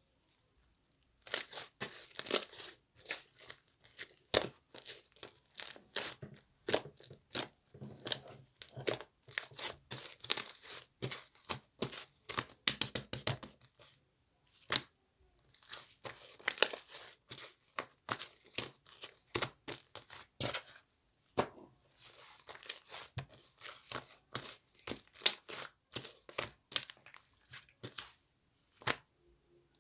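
Fluffy cloud slime being stretched, pulled apart and pressed in the hands, giving dense runs of crackling and small tearing pops with a couple of short pauses.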